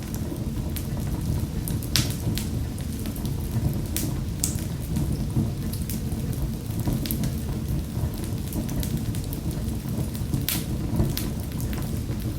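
Wood fire crackling in a fireplace: sharp pops and snaps at irregular moments over a steady low rumble of the flames.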